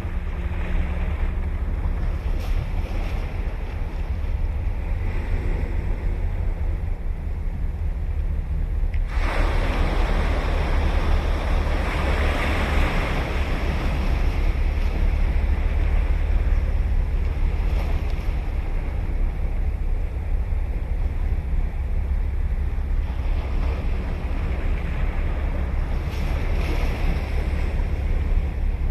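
Ocean surf breaking and washing up the beach, a wave crashing suddenly about nine seconds in and another surge near the end, over a steady low rumble of wind on the microphone.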